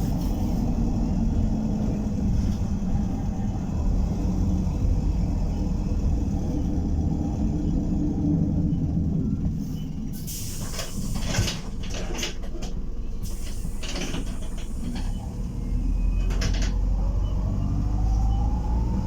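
Optare Solo SR bus heard from inside, its engine running with a low rumble. About halfway through, as it slows, a run of rattling and knocking comes from the bus. This is typical of the noises the bus made when braking, which the owner thinks needed workshop attention. Near the end a whine rises steadily as the bus pulls away.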